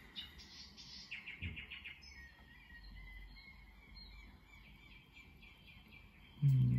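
Faint small-bird chirps, with a quick run of about eight chirps about a second in and scattered single chirps after it. A brief low voice sound comes near the end.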